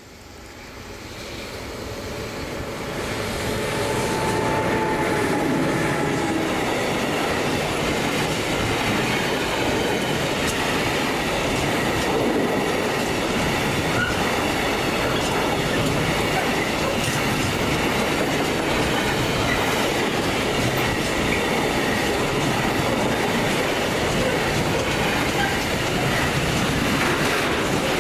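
Railway train passing close by, its wheels running on the rails. It grows louder over the first four seconds, then holds a loud, steady rumble.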